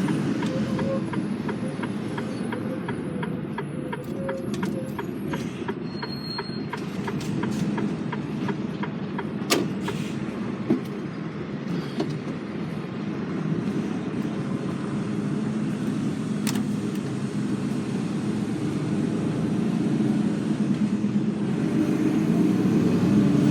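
Articulated lorry heard from inside the cab while driving, with a steady low engine and road drone. Evenly spaced ticking, like an indicator, runs for the first several seconds. There are a couple of sharp clicks later, and the drone grows a little louder near the end.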